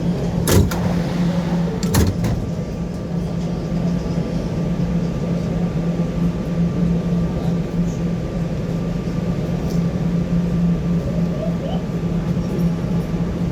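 New York City subway train running with a steady low hum and a faint higher whine, with two sharp clanks about half a second and two seconds in.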